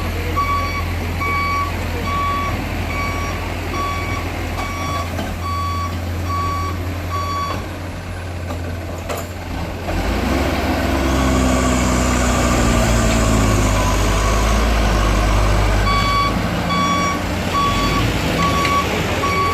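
A heavy machine's reversing alarm beeping at an even pace over a running diesel engine. Partway through the beeping stops for several seconds while the engine revs louder under load, then it resumes near the end.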